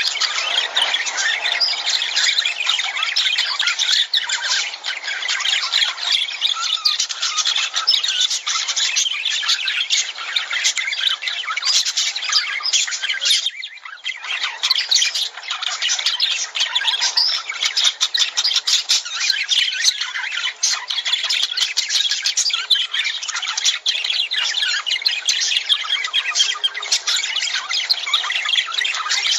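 A flock of lovebirds chattering and squawking nonstop, with dense overlapping high-pitched calls and a brief lull about halfway through.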